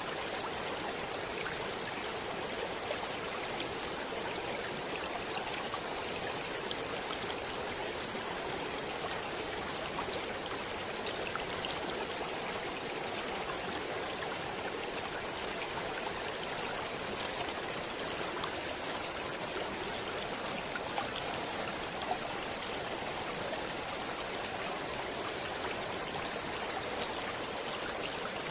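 A stream running steadily, a continuous even rush of flowing water with faint little splashes scattered through it.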